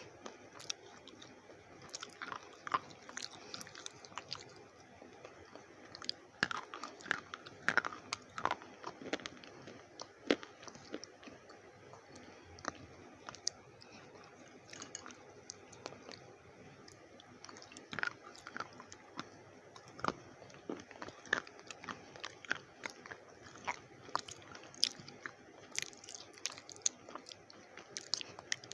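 Slate pencils being bitten and chewed, many sharp, irregular crunches of the brittle slate between the teeth.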